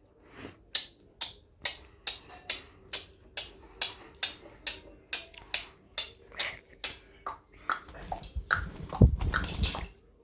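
A pet parrot bathing, splashing and flapping in water in a quick run of short splashes, about two or three a second, with a bigger splash near the end.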